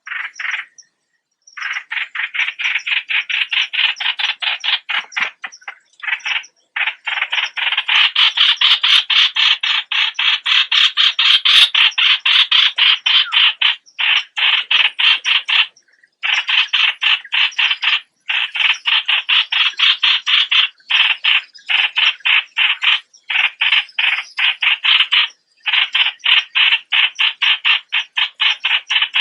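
Bulbul calls: a loud, fast chattering of rapidly repeated notes, running in long stretches broken by short pauses about 1, 6, 14, 16, 18, 21, 23 and 25 seconds in.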